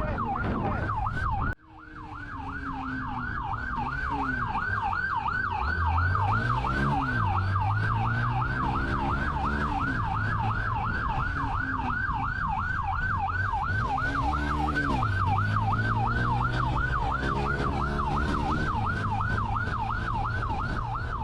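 Police car siren on a fast yelp, sweeping up and down about three to four times a second, with the patrol car's engine running underneath and rising and falling in pitch twice. The audio cuts out briefly about a second and a half in, then the siren resumes.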